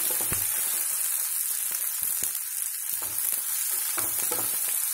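Chopped onions and ginger-garlic paste sizzling steadily in hot oil in a kadai while a spatula stirs them, with a few light scrapes and knocks of the spatula on the pan. This is the paste being fried until its raw smell goes.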